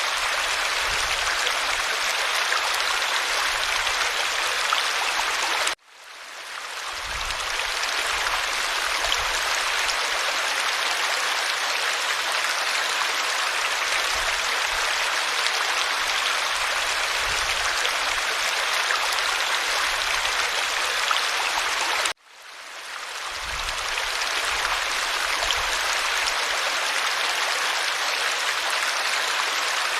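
Creek water running and splashing in a steady rush. Twice the sound cuts out suddenly and fades back in over a second or so.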